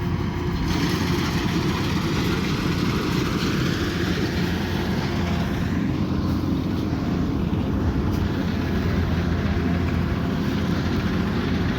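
Kubota combine harvester's diesel engine running steadily under load, with the broad rushing noise of the threshing and cutting machinery over a steady low engine hum.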